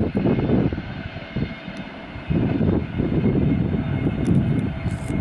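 Low rumble that swells and drops in irregular gusts as a train pulls away from the platform, with a dip about a second in.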